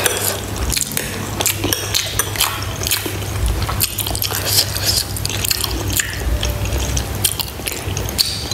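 Close-miked chewing of a mouthful of white rice and pork bone soup: a run of short mouth clicks and smacks.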